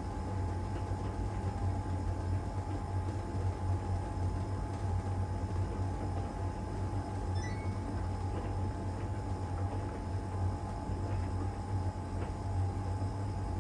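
LG heat pump dryer running mid-cycle in its iron-dry stage, the drum turning steadily with laundry tumbling. A low hum and a steady whine run under an even rushing noise, with a few faint ticks.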